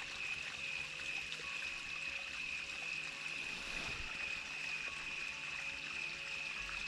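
Steady outdoor night ambience: a continuous hiss like a flowing creek, with a steady high-pitched tone over it.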